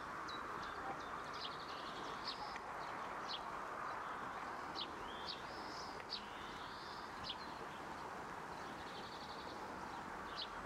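Birds chirping: short high chirps at irregular intervals with a few quick trills, over a steady background hiss.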